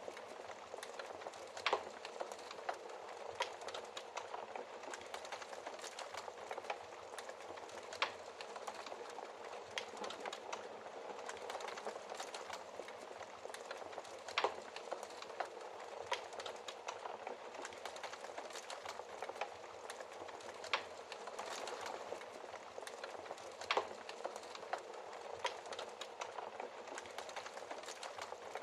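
Wood fire burning in a fireplace: a steady low hiss with irregular crackles and sharp pops from the burning logs, a few louder pops standing out every several seconds.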